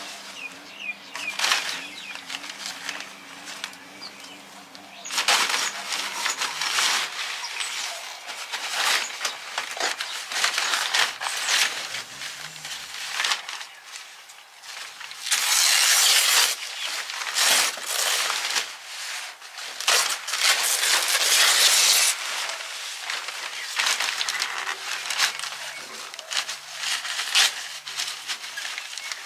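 Rustling and crinkling handling noise with many irregular clicks and knocks, and two longer, louder rushes of rustling about fifteen and twenty seconds in. A low hum underneath stops about six seconds in.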